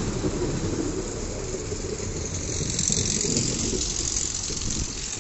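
A short train of small diesel shunting locomotives and an old coach passing close by, its wheels and running gear clattering on the rails. A brief higher hiss comes about three seconds in, and the sound eases off near the end.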